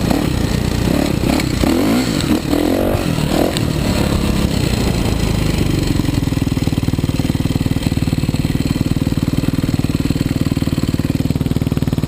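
Kawasaki KX450 four-stroke single-cylinder motocross bike engine revving up and down for the first few seconds, then settling to a steady idle.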